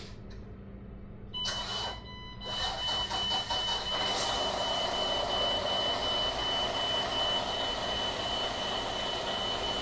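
Road train prime mover's diesel engine cranking and starting about a second in, then running. A high, steady warning buzzer sounds from the moment the ignition comes on.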